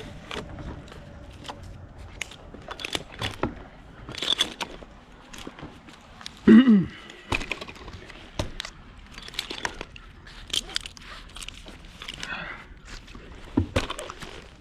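Climbing rope and hardware being handled: scattered clicks and scrapes. About halfway there is one short, loud vocal sound that falls in pitch, like a grunt.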